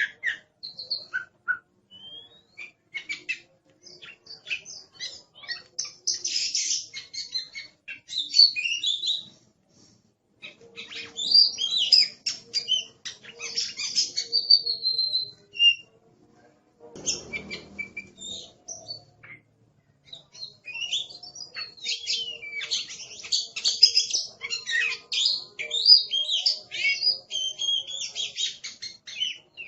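Oriental magpie-robin (kacer) singing a loud, fast, varied song of whistles, chatter and harsh notes in long runs, with short pauses between them. Partway through there is a brief low rustling noise.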